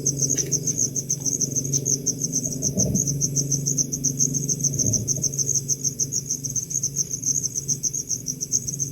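Cricket chirping in a fast, even pulse, several chirps a second without a break, over a steady low hum.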